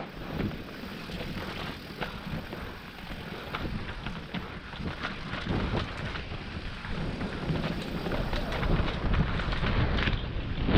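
Mountain bike rolling fast down a dirt forest trail: tyre noise with frequent knocks and rattles over roots and rocks, plus wind on the microphone, getting louder near the end.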